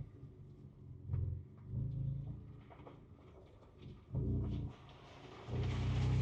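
Ford Ranger Raptor's twin-turbo V6 heard from inside the cabin, pulling at low revs in short bursts of throttle while crawling a rough trail. A steadier push on the throttle comes near the end, with more tyre and gravel noise, and faint clicks and knocks sound in between the bursts.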